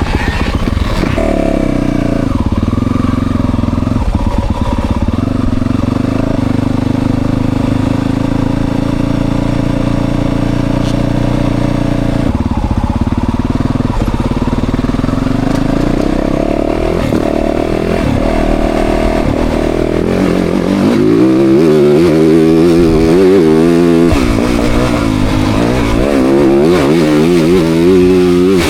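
Motocross dirt bike engine, heard from the rider's position, revving up and dropping back again and again as it accelerates and shifts. About two-thirds of the way in it grows louder, with quick rapid swings of throttle.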